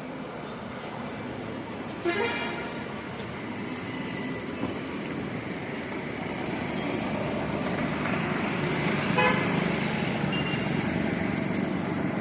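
Road traffic going by, with two short vehicle horn toots, about two seconds in and again about nine seconds in. The traffic grows louder toward the middle as vehicles pass close.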